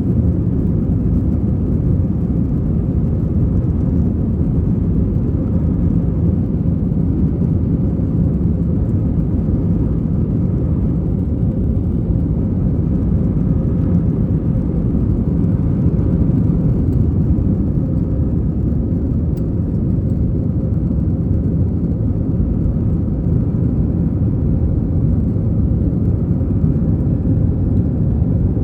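Airbus A321 heard from inside the passenger cabin, its jet engines and the airflow making a steady, deep drone that stays the same throughout.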